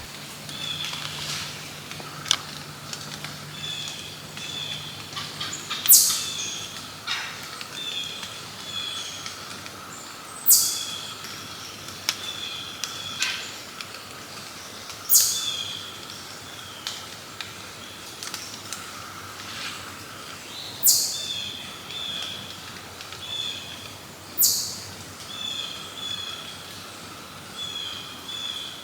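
Wild birds calling in woodland: a sharp, high note that falls steeply in pitch comes five times, every four to six seconds, over softer repeated chirping.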